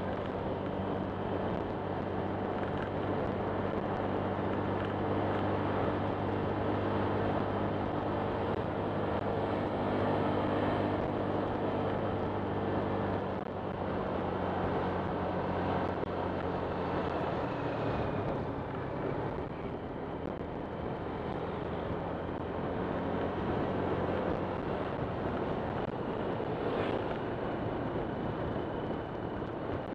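Honda Click 125 scooter's single-cylinder engine running under way, with wind and road noise. The steady engine note changes about halfway through.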